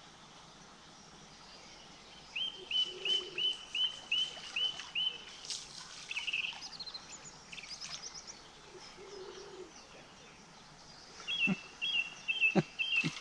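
A songbird singing a run of repeated sharp, downward-hooked notes, about three a second, first a little after the start and again near the end, with a brief high trill in between. A few sharp clicks come near the end.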